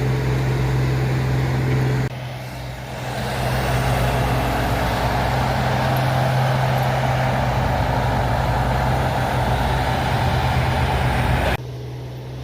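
Heavy truck or machine engine running with a steady drone. It breaks off abruptly about two seconds in and again near the end, where the sound jumps as if cut.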